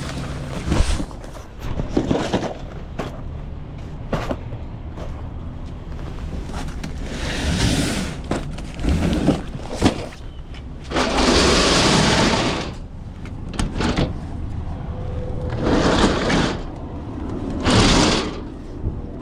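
A steady low engine rumble with several bursts of hiss, the longest and loudest about eleven seconds in, and shorter ones near the end.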